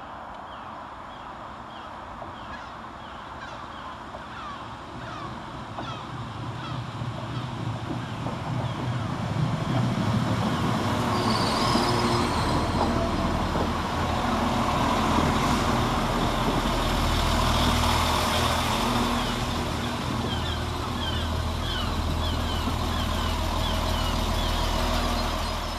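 Class 196 diesel multiple unit running into the platform: its sound grows from faint to a steady engine drone with rail noise as it draws alongside, with a brief high squeal about twelve seconds in.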